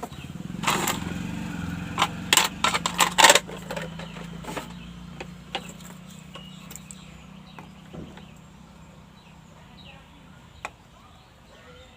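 Sharp clicks and taps of hand tools and a soldering iron at work on a CRT TV circuit board, loudest in a cluster in the first few seconds, over a steady engine-like hum that fades away over about ten seconds.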